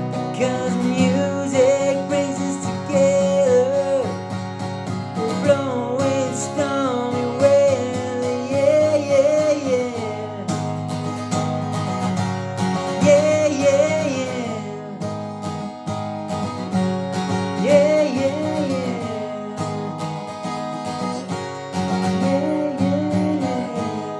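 Song played on strummed acoustic guitar, with a wavering melody line carried over the chords.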